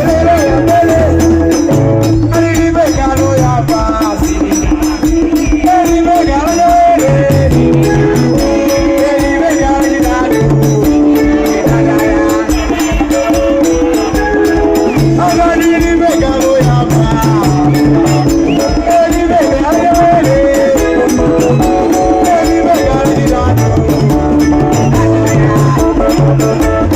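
Loud live Malawian band music played through a PA. A bass line steps under melodic lines, over a fast, even rattling beat.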